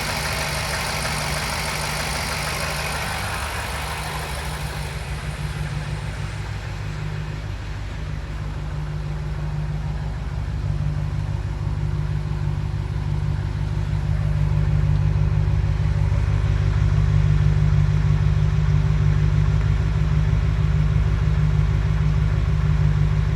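BMW M5's twin-turbo 4.4-litre V8 idling steadily as it warms up from a cold start, breathing through catless downpipes and the stock exhaust. A higher hiss fades out about five seconds in, and the idle grows a little louder past the middle.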